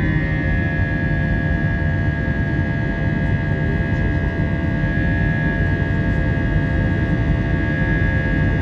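Jet airliner engines running at steady power, likely a Wizz Air Airbus A320-family jet: a constant rumble with a high whine that drops a little in pitch about half a second in, then holds.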